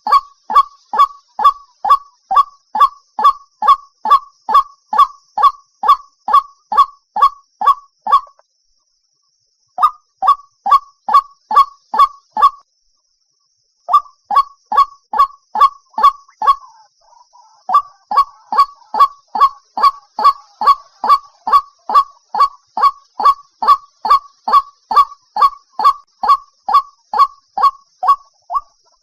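White-breasted waterhen calling: a monotonous run of loud, evenly spaced honking notes, about two to three a second, broken by two short pauses. A faint steady high hiss runs underneath.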